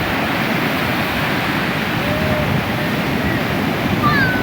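Ocean surf breaking and washing ashore in a steady loud rush, with brief faint shouts of children near the middle and the end.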